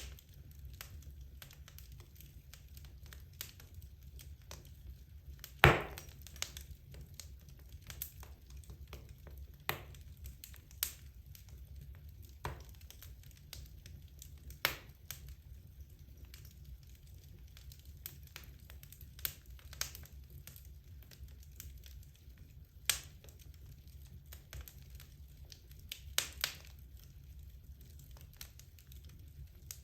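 Wood logs burning in a fireplace: scattered crackles and sharp pops, one every second or two, over a low steady rumble. The loudest pop comes about six seconds in.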